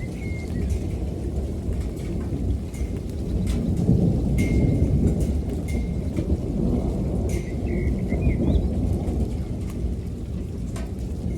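Rolling thunder rumbling on without a break under steady rain, with the sharp ticks of raindrops. A bird chirps briefly now and then.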